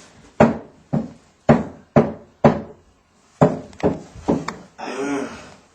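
A hammer banging repeatedly on the pipes under a sink: about nine sharp blows, a brief pause partway through, then a quicker run of blows.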